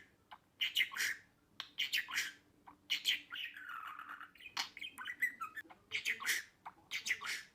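Budgerigar chattering: quick runs of short chirps and squawks, with a longer warble about halfway through.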